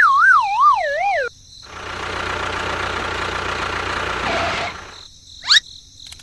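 A siren-like warbling tone wavering up and down about twice a second for just over a second, then about three seconds of steady noise, and a quick rising whistle near the end.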